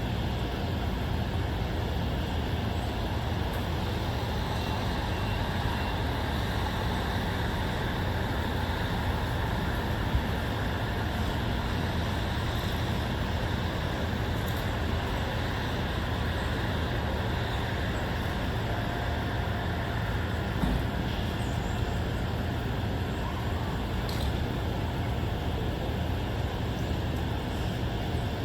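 Steady low hum of distant road traffic with no breaks, a few faint ticks over it.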